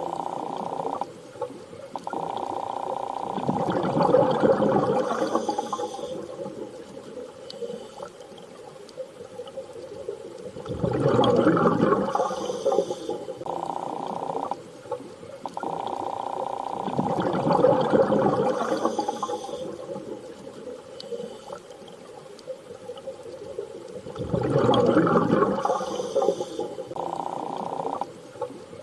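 Underwater-style water ambience: slow swells of rushing, gurgling water about every seven seconds, with a steady hum that cuts in and out between them.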